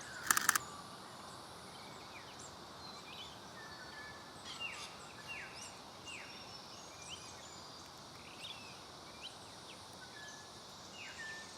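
A camera shutter fires a short rapid burst just after the start. Then small birds call over and over with short falling chirps against a faint outdoor hiss.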